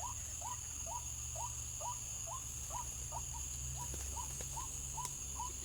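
White-breasted waterhen calls: a steady run of short, upward-sliding notes repeated a little over twice a second, over a constant high insect drone.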